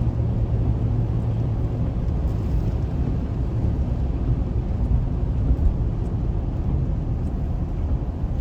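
Car driving at highway speed, heard from inside the cabin: a steady low rumble of engine and tyre noise with a constant hum.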